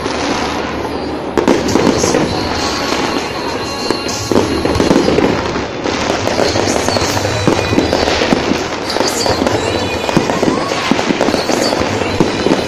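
Aerial fireworks shells bursting one after another in quick succession, with music playing underneath.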